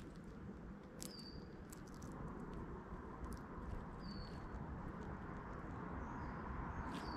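Short, high bird chirps about three seconds apart, three in all, with a few sharp clicks in between over a steady low background rumble.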